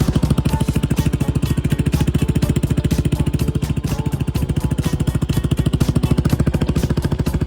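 Kawasaki 250TR's single-cylinder four-stroke engine running steadily with an even beat of about a dozen pulses a second, idling smoothly on its freshly overhauled carburetor.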